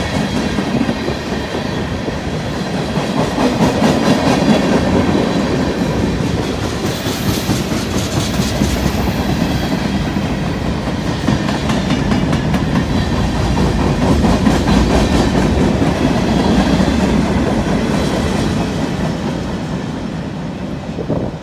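Freight train rolling past, its cars' wheels running steadily over the rails.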